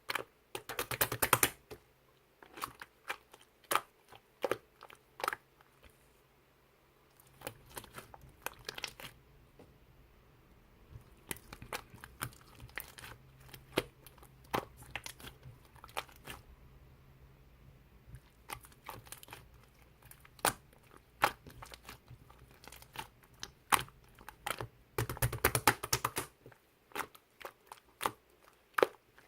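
Scattered sharp clicks and taps, with two short flurries of rapid crinkling: one about a second in and one near the end.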